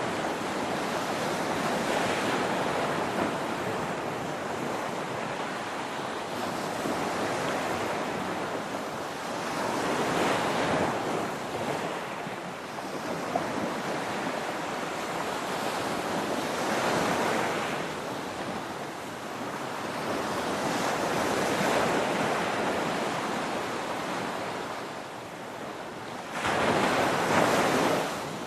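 Ocean waves breaking on a beach: a continuous rush of surf that swells and ebbs every several seconds as each wave comes in. The loudest wave breaks near the end.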